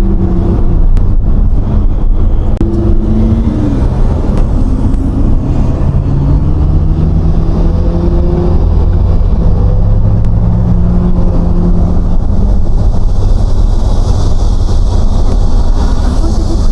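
Lamborghini Aventador SVJ's V12 engine and exhaust under way, its note stepping and gliding up and down in pitch over a steady, loud low rumble. Road and wind hiss grows near the end.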